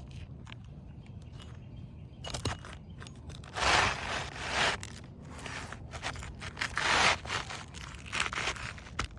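Asphalt roof shingles being pried, scraped and crunched by hand during a shingle replacement: irregular bursts of scraping with a few short clicks, the loudest bursts about two fifths of the way in and again about three quarters of the way in.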